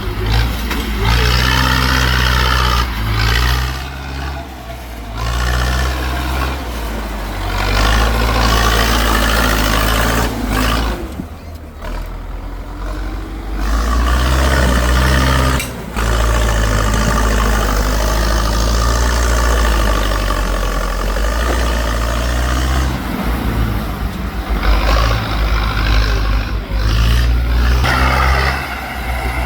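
Tractor engine revving hard in repeated surges, its pitch climbing and falling, over a steady low engine hum.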